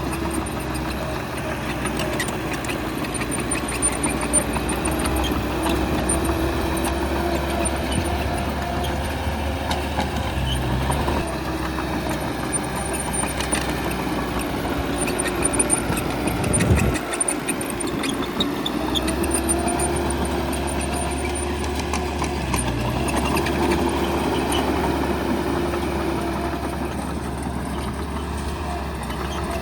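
Bulldozer's diesel engine running steadily under load, its pitch rising and falling as it works, with a brief drop and surge about seventeen seconds in.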